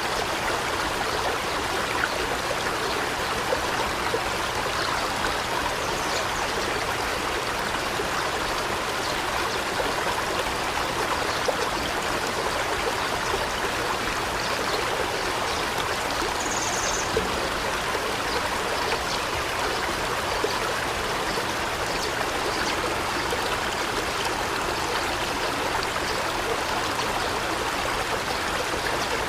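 Steady rushing, trickling water in a forest ambience, even and unbroken, with one brief high bird chirp about two thirds of the way through.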